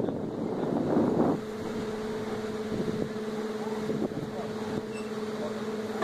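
Moving train heard from an open carriage window. Wind rushes across the microphone for about the first second and a half, then gives way to a steady engine hum with a few faint knocks.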